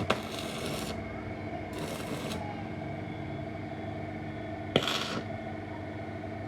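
A sharp metallic clink, then three short rasping scrapes, over a steady hum.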